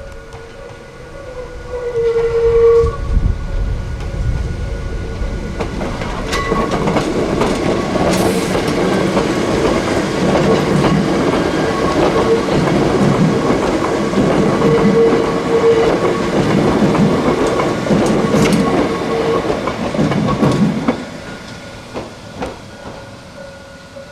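Hakone Tozan Railway electric train passing. A short horn note sounds about two seconds in, then the cars run by with a steady whine and wheels clicking over rail joints. The sound drops away after about 21 seconds.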